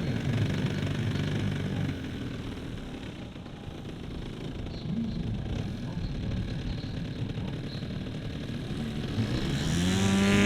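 Petrol engine of a large radio-controlled Pitts Special biplane model running in flight, fainter through the middle, then rising in pitch and getting louder near the end.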